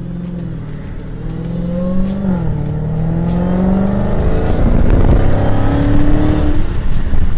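Dodge Charger Hellcat's supercharged 6.2-litre HEMI V8 accelerating, heard from inside the cabin. The revs climb, fall back at a gear change about two seconds in, then climb again as the engine gets louder.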